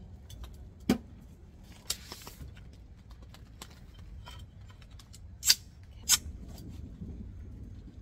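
Telescoping metal awning poles being handled and set to length: a series of sharp clicks and clacks, the loudest two about five and a half and six seconds in.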